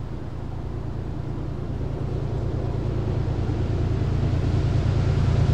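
A train approaching, its low rumble growing steadily louder.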